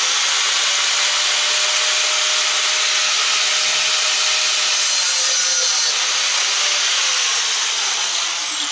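Angle grinder cutting a slot into the head of a seized screw so it can be turned with a screwdriver: a steady, loud grinding with a constant motor whine, whose pitch falls near the end as the disc slows.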